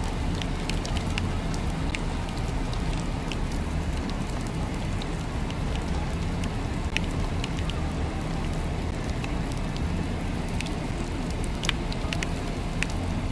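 Rain falling with scattered sharp drops ticking, over a steady low rumble.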